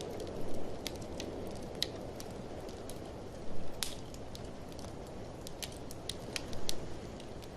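Wood fire crackling in a fireplace: sharp snaps scattered irregularly, with three louder clusters of pops, about half a second in, midway and near the end, over a steady low rushing noise.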